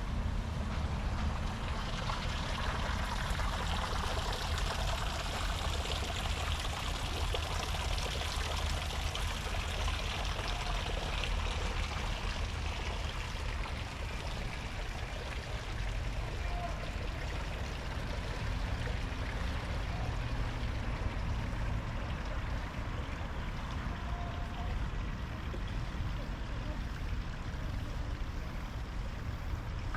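Running water, a stream-like rushing that is loudest in the first dozen seconds and then fades away, over a steady low rumble of wind on the microphone.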